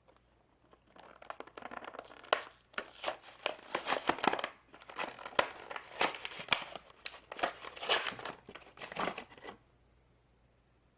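Crinkling and clicking of toy-car packaging being handled, in uneven bursts that stop about a second and a half before the end.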